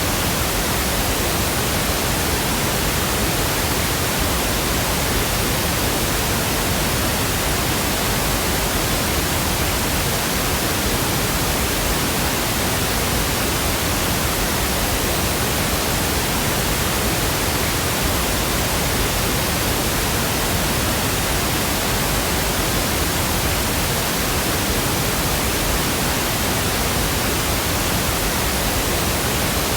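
Steady pink noise: an even, unbroken hiss spread across the whole range, with no change in level.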